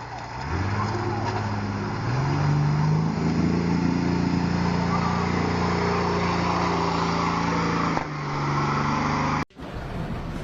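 A motor vehicle engine revving up in steps, then holding at steady high revs under load. It drops back at about eight seconds, and the sound cuts off abruptly shortly after.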